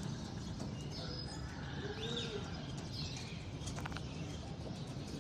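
Racing pigeons cooing: one low, arched coo about two seconds in, with a few short high chirps over a steady low background noise.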